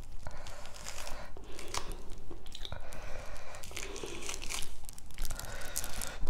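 Close-up chewing of a mouthful of food, with irregular crunching and crackling.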